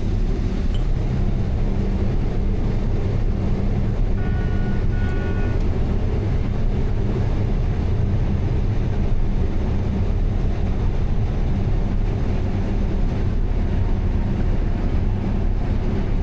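Combine harvester running steadily under load, a continuous low engine and machinery drone. A brief high beeping tone sounds about four seconds in.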